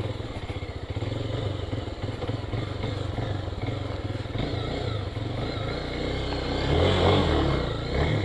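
Small motorcycle engine running at low revs over a rough dirt track, swelling louder for a moment about seven seconds in.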